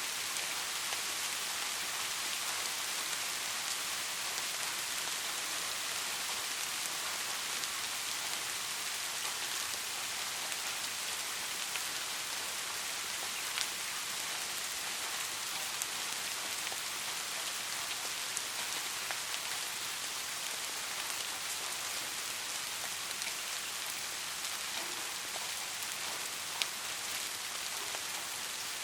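Steady rain falling, an even hiss with scattered sharper drop ticks, a couple of them louder, about halfway through and near the end.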